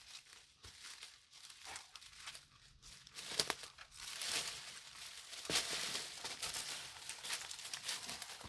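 Dry brush and twigs rustling and crackling, with scattered sharp snaps; no engine running.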